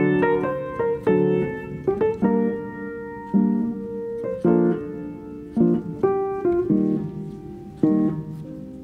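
Piano music: slow struck notes and chords, each fading before the next.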